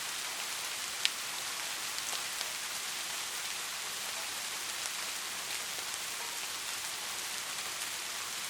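Steady rain falling as an even hiss, with scattered drops ticking and one sharper drop hit about a second in.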